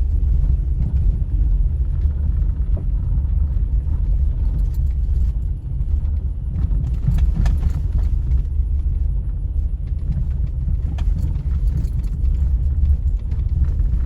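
Beach fireworks display: a loud, steady low rumble with a few faint sharp cracks scattered through it.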